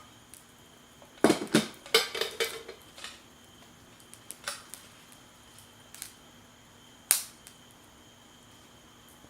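Clinks and clatter of dishes and cooking utensils being handled: a cluster of knocks about a second in, a few light ticks, then one sharp clink about seven seconds in.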